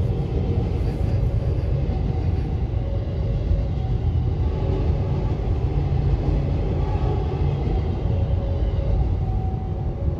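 KRL Commuter Line electric train passing close by at a level crossing: a steady, heavy rumble of the wheels on the track.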